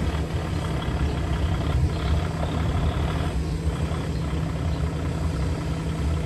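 Heavy-duty diesel engine of a Kenworth T660 truck idling steadily.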